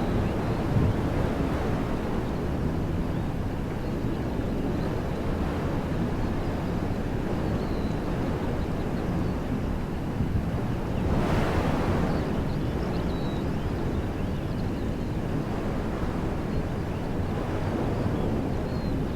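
Wind blowing through woodland trees, a steady low rushing that swells into a stronger gust about eleven seconds in.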